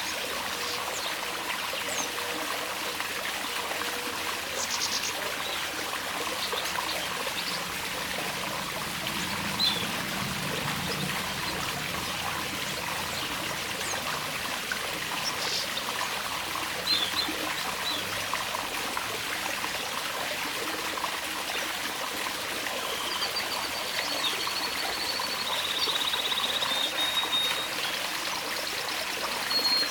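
Water trickling steadily, with small aviary birds giving occasional short high chirps and a held high whistle near the end.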